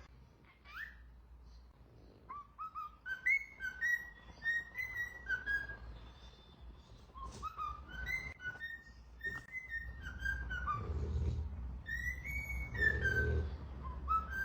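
A parrot whistling a run of short, quick notes, some gliding up and some dropping, with a rumbling, handling-like noise underneath toward the end.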